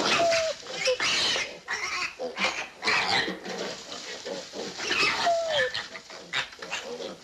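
A litter of young piglets squealing in a string of short, high squeals.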